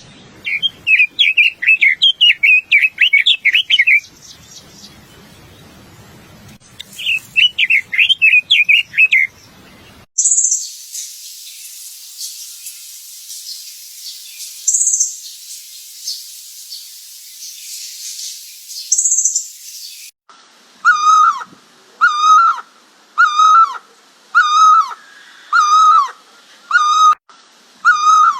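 Bird calls from several separate recordings. First come two runs of rapid, high chattering notes. Then a steady high hiss with three sharp, very high calls in it. Last, a single call repeated about once a second, each note sliding down.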